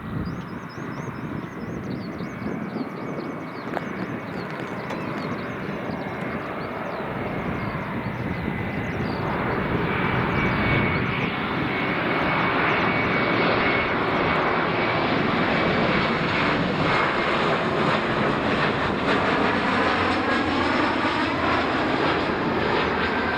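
Jet airliner's engines passing close, growing louder over the first ten seconds and then holding a loud roar with a steady high whine.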